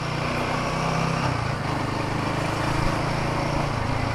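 Royal Enfield Himalayan 450's single-cylinder engine running at a steady pace while riding, with wind and road noise over it.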